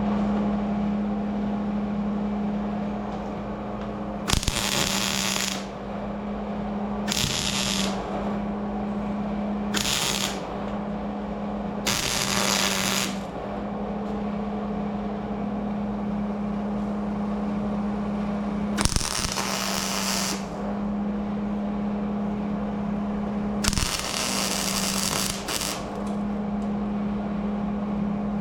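A power tool run in six short bursts of one to two seconds each, over a steady low hum.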